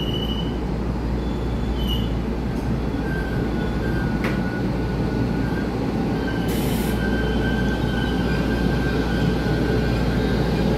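A passenger train rolling past on the adjacent track in an underground station: a steady rumble that slowly grows louder, with faint thin wheel-squeal tones over it.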